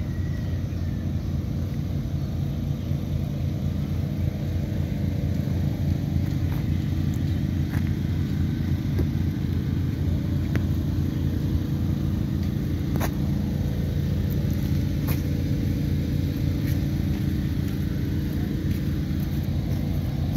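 Volkswagen Jetta four-cylinder engine in an open-frame VW buggy, idling steadily, with a few sharp ticks over it.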